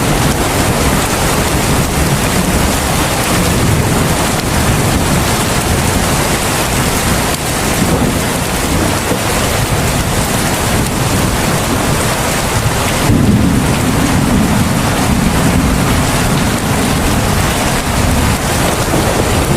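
Heavy rain falling steadily, a dense even hiss. About two-thirds of the way through, a deeper low rumble joins it.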